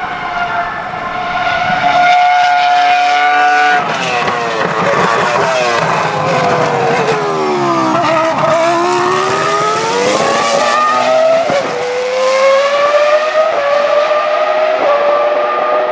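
Cosworth CR-6 3.0-litre V10 of a 2004 Jaguar R5 Formula 1 car at high revs. About four seconds in the engine note falls as the car slows, then from about eight seconds it climbs again under full throttle, with quick upshifts breaking the rising pitch.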